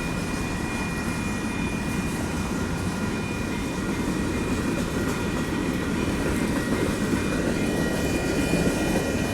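Union Pacific freight cars rolling slowly through a road grade crossing: a steady rumble of wheels on rail, with a thin high ringing tone held steadily over it.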